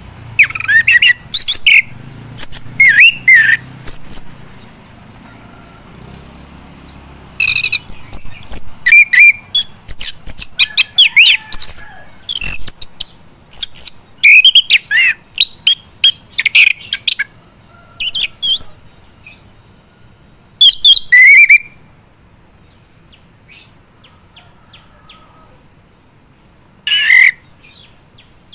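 Male chestnut-capped thrush (anis kembang) singing loudly in full song: bursts of quick, high, varied notes delivered as separate phrases with short pauses between them, then a longer lull before one last phrase near the end.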